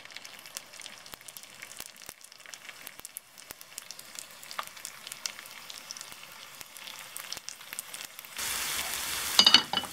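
Potato köfte patties frying in shallow oil in a pan: light scattered crackles at first, then from about eight seconds in a much louder, steady sizzle, with a few sharp clicks just before the end.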